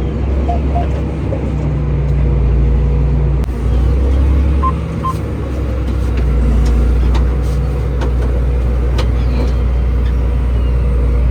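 Farm tractor engine running steadily, heard from inside the cab, with two pairs of short electronic beeps, one near the start and one about five seconds in.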